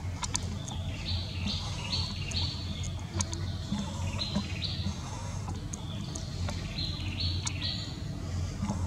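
A bird calling: short groups of high notes stepping upward, repeated every couple of seconds, with scattered sharp clicks and a steady low hum underneath.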